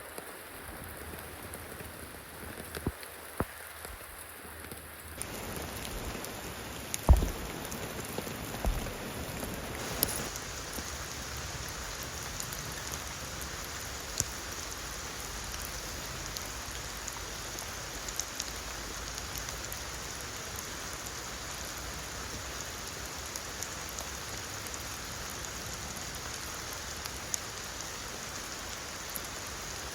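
Steady rain falling, with scattered drops ticking through it. The rain gets louder about five seconds in, and there are two dull knocks at about seven and nine seconds in.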